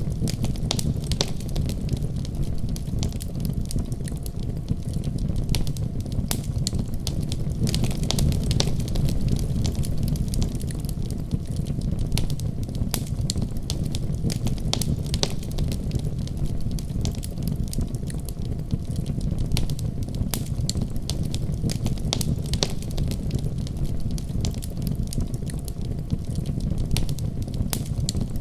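Wood fire crackling steadily: a constant low rumble of flames with dense, irregular pops and snaps from the burning wood.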